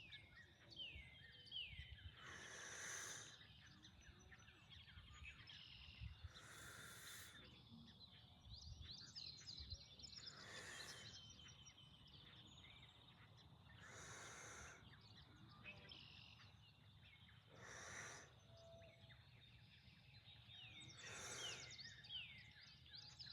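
A person breathing out audibly about every three and a half seconds, six soft breaths in time with slow dumbbell side bends, over faint wild birdsong with short chirps and trills.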